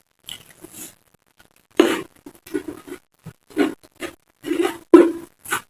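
Close-up chewing and crunching of raw vegetables, a series of irregular crunches starting nearly two seconds in, the loudest about five seconds in.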